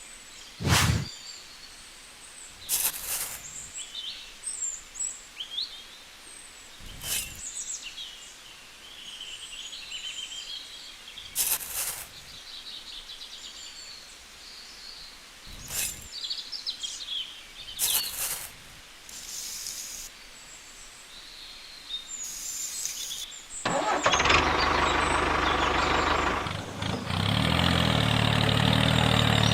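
Birds chirping, with scattered sharp knocks. About 24 seconds in a small motor starts and runs steadily, then steps up in pitch and level a few seconds later.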